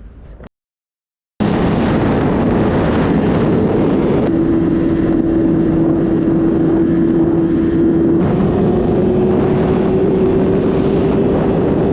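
Motorcycle riding, heard from the bike: heavy wind rush over the microphone with a steady engine note underneath that climbs slowly in pitch in the second half. It starts suddenly about a second and a half in.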